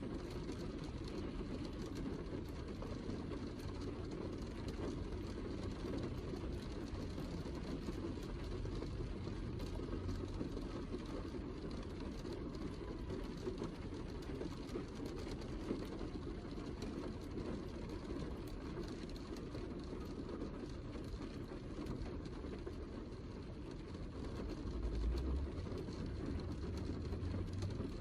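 Heavy rain falling in a steady, dense wash, with much of its weight low down and fine drop patter above it; a brief low swell comes about three seconds before the end.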